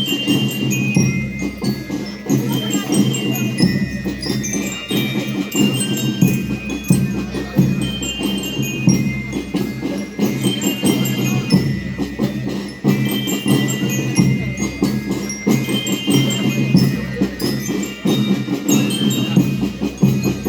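School rhythm band playing: metal bell lyres ring out a stepping melody over a steady drum beat.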